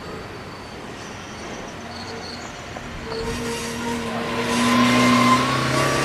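Electric train running past, its motor whine rising slightly in pitch and the running noise growing louder from about three seconds in, peaking near the end.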